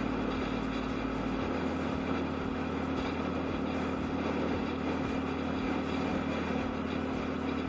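Yamaha Aerox scooter's single-cylinder engine running at a steady speed while riding, holding one even pitch.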